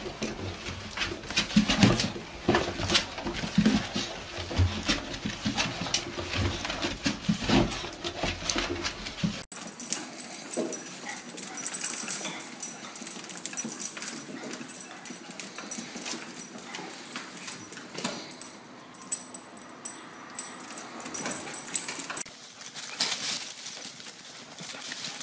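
A dog making noises, in two separate home recordings; the sound changes abruptly about nine and a half seconds in.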